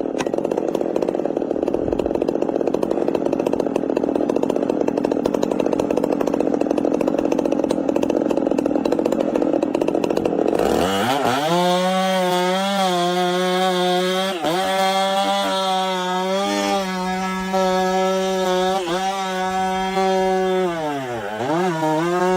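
Chainsaw engine running at high revs while cutting into a tree trunk. About ten seconds in, the sound changes abruptly to a clearer, steady engine note whose pitch dips briefly several times, most deeply near the end.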